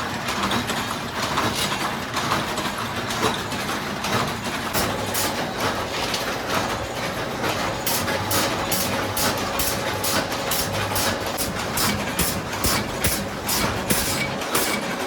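Steady din of factory machinery in a steel chain works. About halfway through, a sharp regular ticking of about three beats a second joins it.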